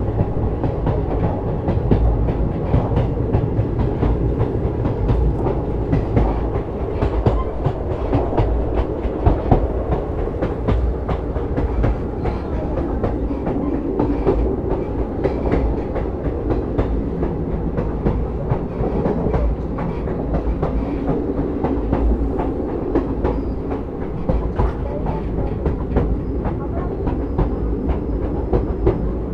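Moving train rumbling along the track, its wheels clattering over the rails in a dense run of clicks and knocks.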